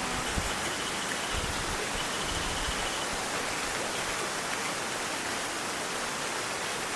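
Heavy tropical rain falling steadily, an even hiss. A faint, high, rapid trill sounds twice over it in the first few seconds.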